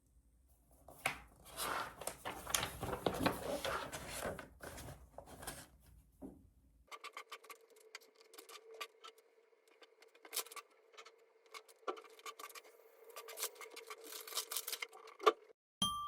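Close rustling and crackling handling noise for several seconds. It cuts off abruptly and gives way to a faint steady hum with scattered light clicks and taps.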